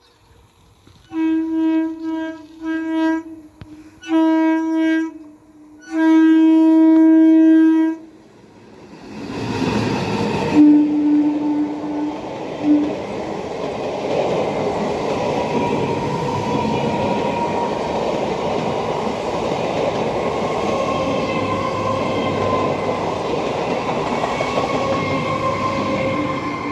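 Horn of an ICF electric multiple unit (EMU) local train: several short blasts, then one long blast. After that the train runs past at speed without stopping, with a steady loud noise of wheels on rail and a brief horn toot about eleven seconds in.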